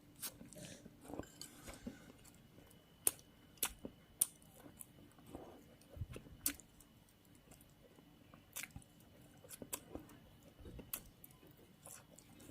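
A person chewing a mouthful of soft steamed yinchen (capillary wormwood) mixed with flour, faint and close, with scattered sharp mouth clicks every second or two.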